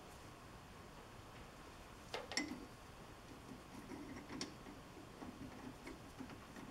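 Faint clinks and knocks of small metal hardware being rummaged through, with a couple of sharper metallic clinks that ring briefly, about two seconds in and again past four seconds.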